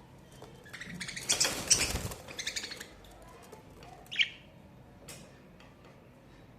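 Budgerigars chirping: a rapid, chattering run of high chirps lasting about two seconds with a brief rustle in the middle of it, then one sharp chirp a couple of seconds later.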